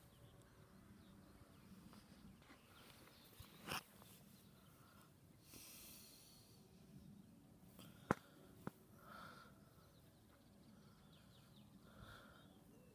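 Near silence: faint outdoor ambience with a few small clicks and knocks, the sharpest about eight seconds in, and a brief soft hiss around six seconds in.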